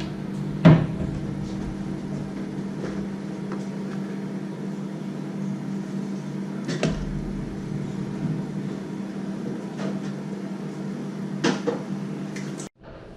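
A kitchen appliance hums steadily, with a few sharp clicks and knocks, the loudest about a second in. The hum cuts off abruptly near the end.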